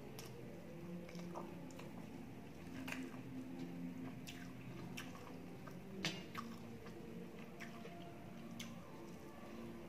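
A person chewing a mouthful of fried rice with the mouth closed, giving soft wet clicks and smacks now and then; the loudest comes about six seconds in. A faint low hum runs underneath.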